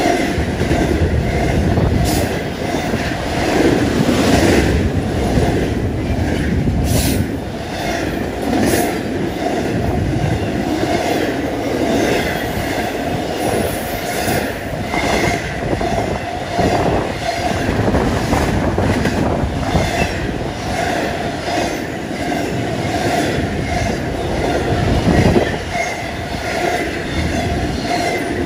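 Double-stack intermodal well cars of a CSX freight train rolling past at speed: a continuous wheel-on-rail rumble with repeated clicks of wheels over the rail, and a faint steady ringing squeal from the wheels over it.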